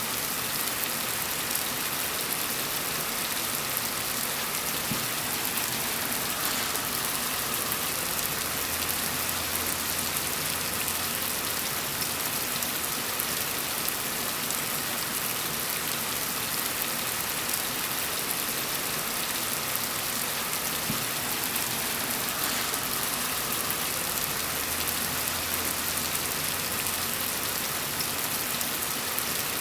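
Steady rain falling, an even hiss of many drops. A faint low rumble comes in twice for a few seconds under it.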